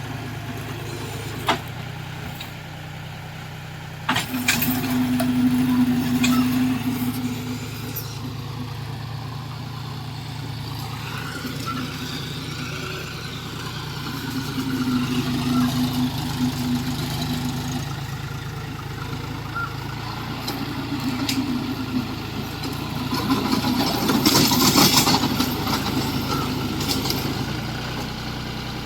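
John Deere tractor's diesel engine running steadily while working a rotavator, its note swelling louder under load several times. A sharp click comes about a second and a half in, and the engine jumps louder about four seconds in.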